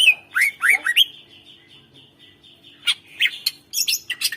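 Cucak ijo (green leafbird) singing in quick bursts of sharp, down-slurred whistles and harsh notes, one burst in the first second and another from about three seconds in, with a lull between.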